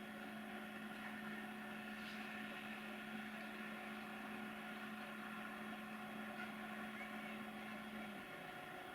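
Faint, steady mechanical hum from a train at the station, made of several held tones. The lowest tone cuts off about eight seconds in.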